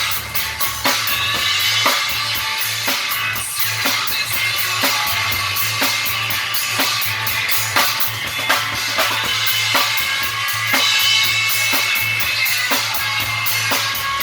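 Rock band playing a rock and roll song: a drum kit keeps a steady beat, with bass drum and snare, under guitar.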